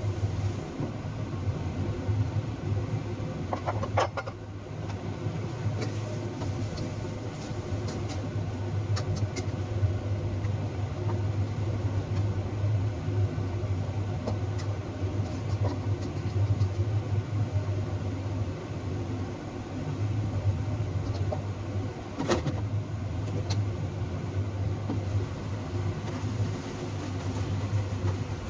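A steady low mechanical hum, with a few light clicks and knocks.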